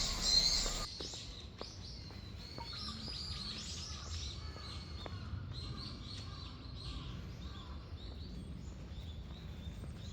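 Wild songbirds chirping and twittering in trees: many short, high calls overlapping, over a faint low background rumble. A louder burst of calls comes at the very start, then an abrupt change to the quieter chorus just under a second in.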